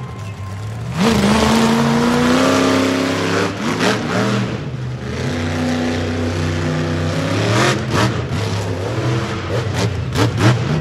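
Monster truck engine revving hard, its pitch climbing and dropping repeatedly as the throttle is worked, getting much louder about a second in.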